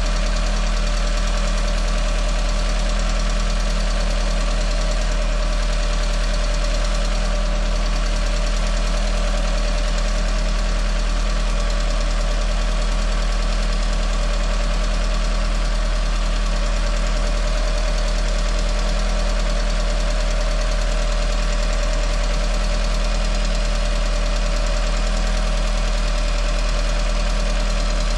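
Freshly rebuilt Volkswagen 1.8T turbocharged four-cylinder engine running steadily just after its first start. A light tick comes from the brand-new hydraulic lifters, which are not yet filled with oil.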